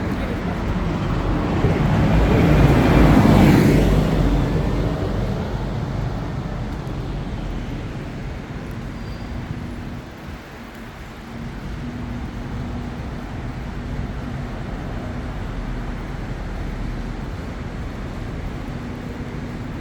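Street traffic: a motor vehicle passes close by, loudest about three seconds in and fading away, then a steady hum of engines.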